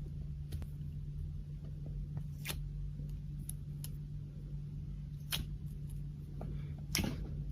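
Clear slime being handled, giving a few sharp, separate clicking pops over a steady low hum.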